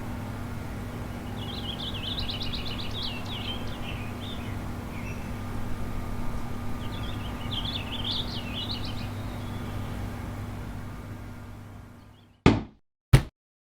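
Outdoor ambience with a steady low hum, and a small bird twittering in two short runs of rapid chirps. The ambience fades out, then two sharp clicks come about half a second apart near the end.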